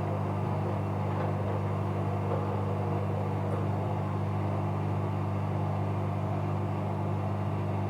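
Bauknecht Super Eco 7615 washing machine running steadily: a constant low hum with a rushing noise over it, holding the same pitch throughout.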